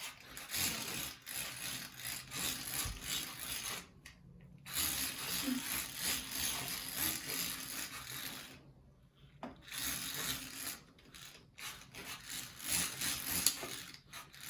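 A small plastic hand-cranked toy spray fan being wound, its plastic gears whirring and rattling in three spells, with short pauses about four and nine seconds in.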